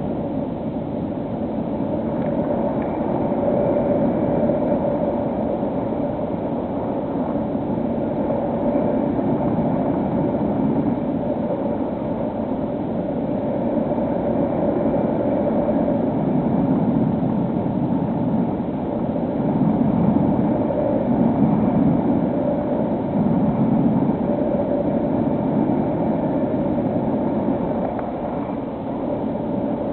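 Electric motor and propeller of a HobbyKing SkyEye FPV plane running in flight: a steady hum with a wavering mid-pitched tone over a rush of air, a little louder around two-thirds of the way through.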